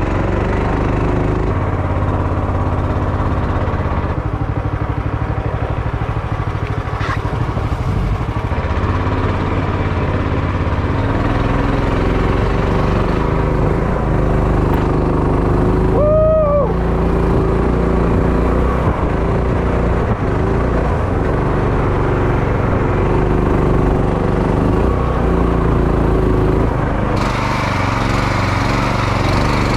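Small outboard motor on a jon boat, running steadily under throttle as the boat moves through the marsh.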